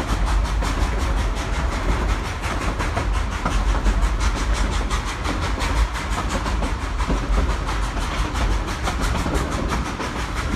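A narrow-gauge passenger train running along the track, heard from an open-sided coach. There is a steady heavy rumble with a fast, regular clicking through it.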